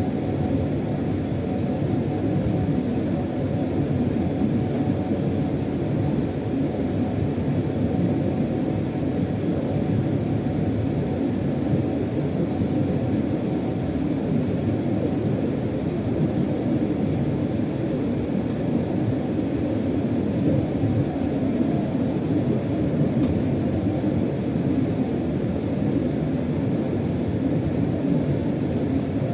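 Freight locomotive heard from inside the driver's cab while running: a steady, even rumble of the train under way.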